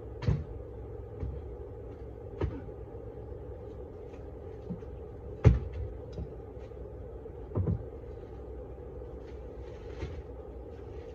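Four hard knocks a couple of seconds apart, the third the loudest, over a steady low hum. The knocks are typical of hands-on work during a hive removal.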